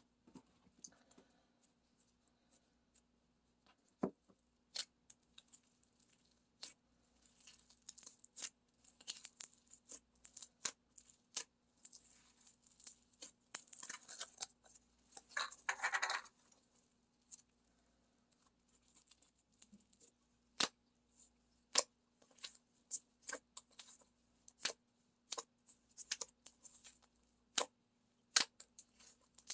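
Black slime with foam beads being pressed and stretched by hand: scattered sharp clicks and crackles of the beads and slime popping, with a denser run of crackling about halfway through. A faint steady hum lies underneath.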